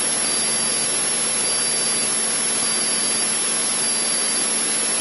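Steady cabin noise of a Cessna 152's four-cylinder piston engine and propeller running at cruise power, an even drone that does not change.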